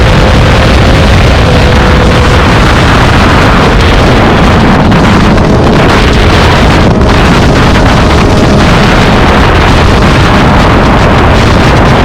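Triumph Street Triple RS three-cylinder engine running through a Spark aftermarket exhaust at a steady, near-constant pitch. Heavy wind buffeting on the microphone nearly drowns it, typical of riding at speed.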